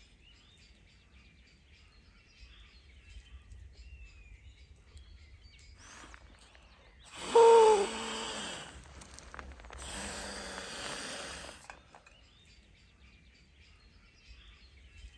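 Birds chirping faintly. Midway come two loud rushes of noise about a second apart: the first, the louder, carries a falling tone, and the second is a softer hiss of about two seconds.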